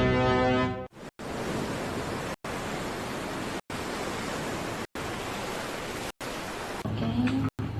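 A steady rushing noise with no pitch, cut by brief silent gaps about every second and a quarter. Music is ending in the first second, and a low hum with a short rising tone comes in near the end.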